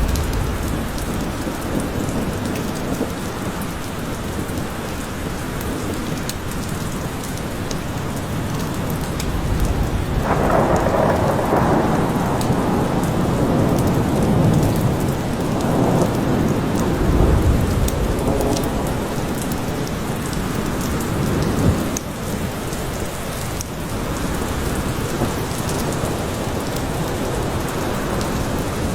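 Steady rain falling in a forest, with low rolls of thunder rumbling from about ten seconds in to about twenty-two seconds.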